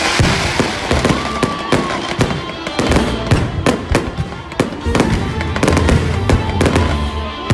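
Fireworks going off in rapid, irregular succession, a dense stream of sharp bangs and crackles, with music playing underneath.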